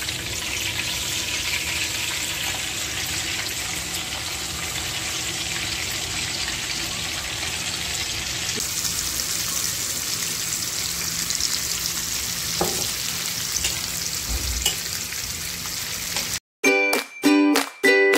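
Minced veal chapli kebab patty shallow-frying in hot oil in a pan, a steady sizzle. Near the end the sizzle cuts off and plucked-string music begins.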